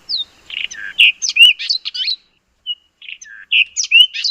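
White-throated robin-chat singing: a quick run of varied whistled notes, a short pause, then a second run.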